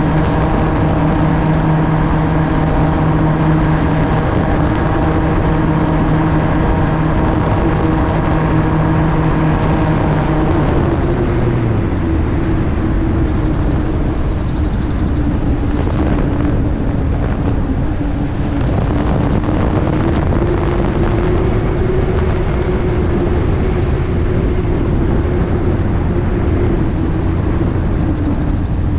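AutoGyro MTO Sport gyroplane in flight: its engine and pusher propeller drone steadily over rushing wind on the microphone. About eleven seconds in, the engine note drops as power is pulled back.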